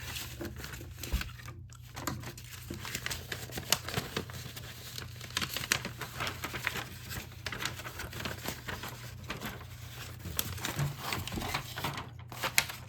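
Irregular crinkling and crackling of a kit part being unfolded and pressed by hand, in a small room with a faint steady hum underneath.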